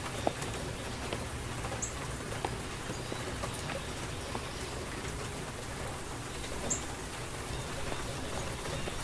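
Steady rain from a rainstorm sound-effect recording, with scattered light drips and taps through it.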